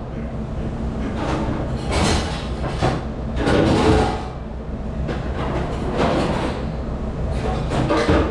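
Commercial kitchen dish room noise: a steady low machine hum with several irregular bursts of clattering and rushing noise.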